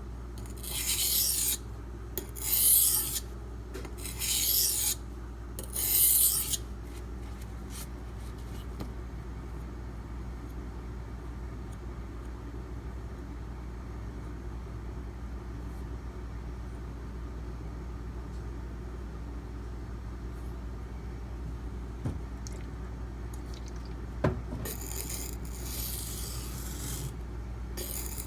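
D2 steel knife blade stroked by hand across a sharpening stone: about five strokes in the first six seconds, then only a steady low hum with a couple of light clicks, and the strokes start again near the end.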